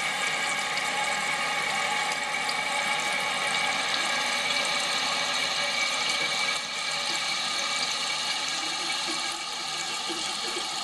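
Toilet refilling after a flush: a steady rush of running water, dropping slightly in level twice in the last few seconds.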